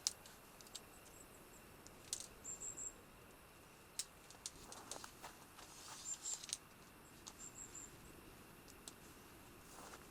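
Sparse light clicks and taps at irregular intervals, with a few short high chirps; busier around the second and sixth seconds.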